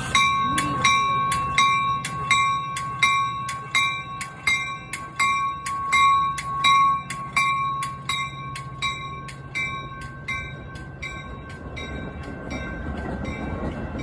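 A railroad bell ringing, about two strikes a second, that starts suddenly and fades away over the last few seconds, over a low rumble that grows near the end.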